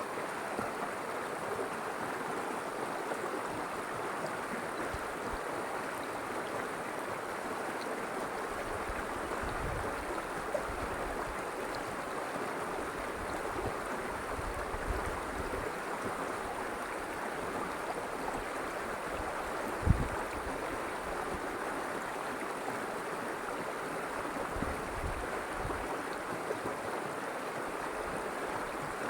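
River water flowing steadily, a continuous even rush. Now and then there are soft low rumbles, and one sharp low thump about two-thirds of the way through.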